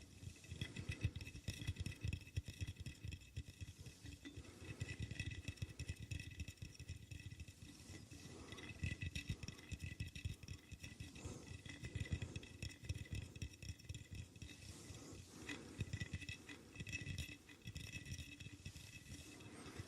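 Rapid fingertip tapping and light scratching on objects close to the microphone, many quick taps a second, with a faint steady high whine underneath.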